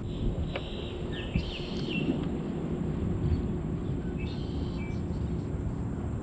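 Birds chirping in two short spells, over a steady low rumble of outdoor noise.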